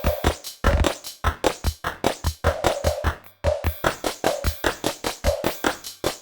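Nord Drum 3P modelling drum synthesizer playing a simple programmed rhythm pattern: a fast, even run of drum hits, with short breaks about half a second in and again about three and a half seconds in.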